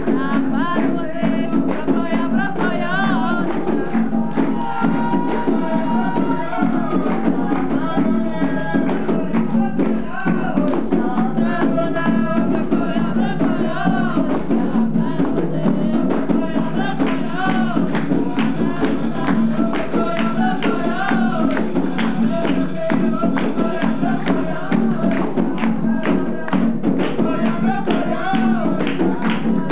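Group singing a devotional Umbanda chant (ponto) over fast, steady hand-drum and shaken percussion strokes.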